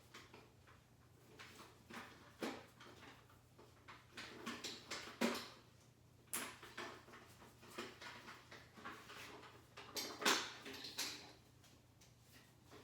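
Irregular handling noise: scattered knocks, clicks and rustles of equipment being moved and set down, a few louder clunks among them, over a faint steady low hum.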